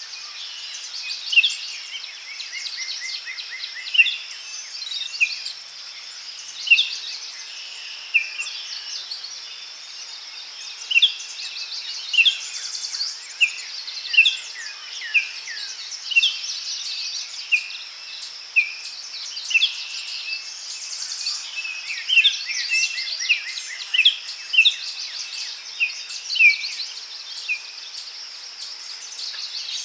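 Daytime forest ambience: a steady high insect drone under frequent short bird chirps and calls, several birds calling in turn and sometimes together.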